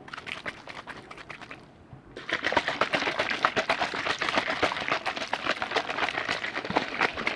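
Liquid handled close to the microphone, making rapid wet clicks and pops. The sound grows much louder and denser about two seconds in.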